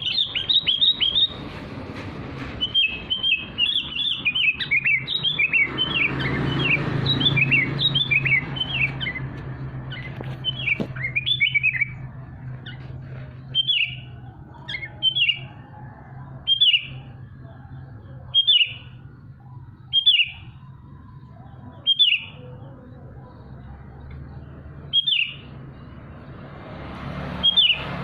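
A songbird chirping: a fast, dense run of high chirps for about the first twelve seconds, then single sharp chirps every couple of seconds. A steady low hum runs underneath.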